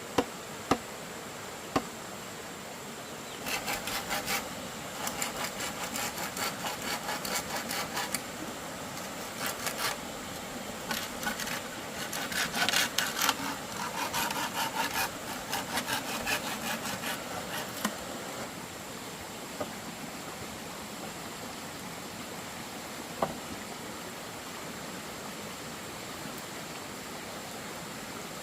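Bamboo being sawn by hand in quick, rasping strokes for about fifteen seconds, after three sharp knocks at the start; a couple more single knocks follow later, over a steady background hiss.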